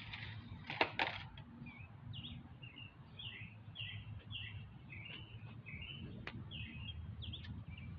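A songbird singing outdoors, a steady run of short chirping notes at about two a second. Two sharp knocks come close together about a second in, over a low steady background rumble.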